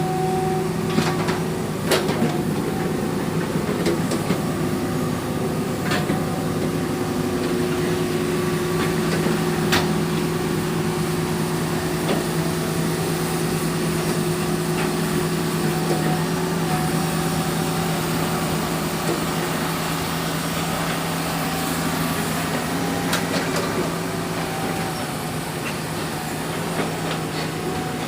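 Excavator's diesel engine running steadily at working revs, with a few sharp knocks now and then.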